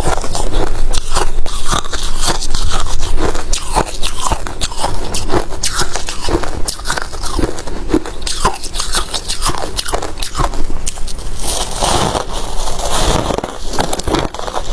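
Close-up crunching of freezer frost ice being bitten and chewed, a dense run of loud crackling crunches with a softer grinding stretch near the end.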